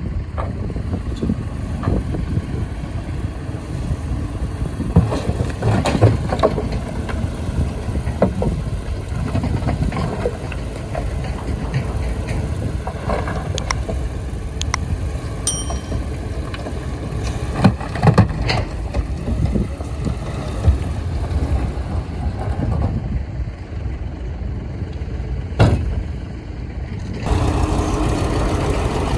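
Heavy diesel earthmoving machinery running with a steady low rumble, with scattered knocks and clanks. There is a brief high chirp about halfway through, and the engine grows louder and fuller near the end.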